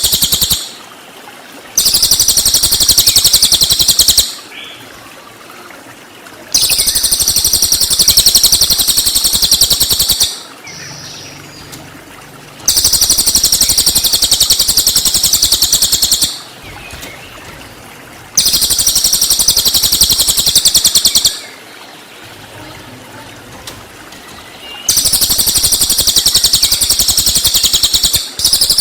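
Recorded song of a cililin songbird: loud bursts of very rapid, high-pitched shooting notes, each about three to four seconds long, repeated five times with pauses of about two seconds between them, like a loop.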